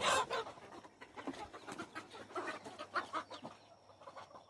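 Chickens clucking, a busy burst of clucks right at the start, then scattered clucks that thin out toward the end.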